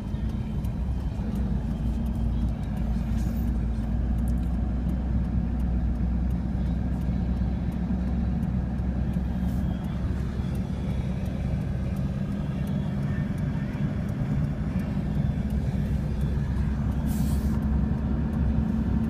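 Steady engine and road noise of a vehicle driving slowly, heard from inside the cabin: a continuous low hum with a brief hiss near the end.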